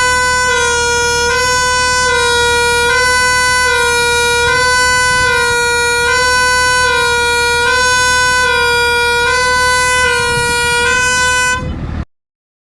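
A Dennis Rapier fire engine's two-tone siren sounding continuously, alternating between two pitches in a steady repeating cycle over a low rumble, then cutting off abruptly near the end.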